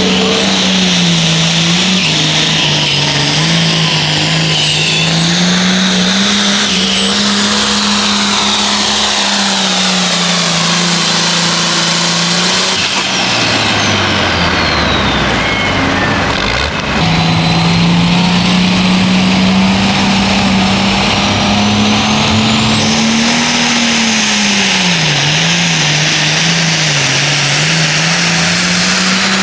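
Modified pulling tractor engine at full throttle during a pull, its drone wavering with load and a high whine gliding above it. About halfway through the engine drops off, then comes back up to full power.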